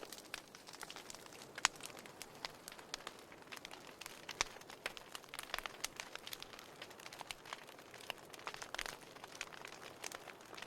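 Fire in a fireplace crackling, with irregular sharp pops and snaps over a soft steady hiss.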